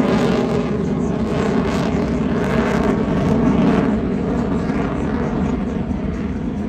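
F-22 Raptor's twin turbofan engines, a loud continuous jet roar that swells and wavers in tone as the aircraft manoeuvres, easing off slightly near the end.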